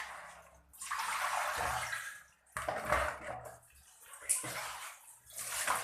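Water splashing and pouring in several uneven bursts as fish is washed by hand.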